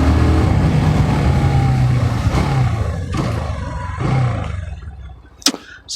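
Bajaj Pulsar NS 160's single-cylinder twin-spark engine running on the move, with wind noise over the microphone. The engine note dies away over the last couple of seconds as the bike slows, and there is a sharp click near the end.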